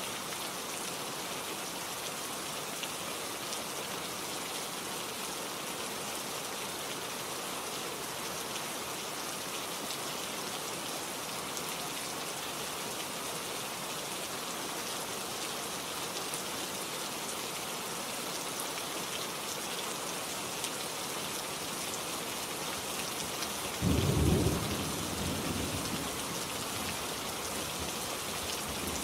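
Steady rain falling, with one sudden clap of thunder about 24 seconds in that rumbles off over a couple of seconds.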